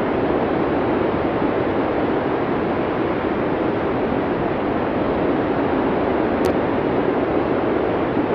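Blizzard wind making a steady, even rushing noise with no distinct gusts. It sits low to mid in pitch, like a distant surf.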